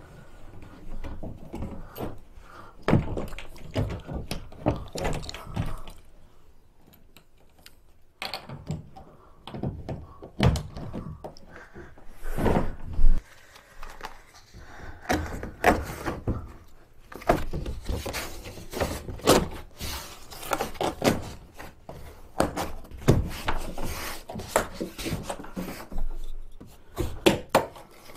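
Irregular thunks, knocks and scrapes from handling a Tucktec folding plastic kayak, quieter for a couple of seconds partway through.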